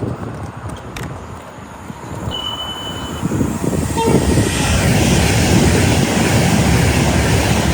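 A train passing at speed: its rumble and wheel noise build from about halfway through and stay loud. A brief, thin high-pitched tone sounds just before the rumble swells.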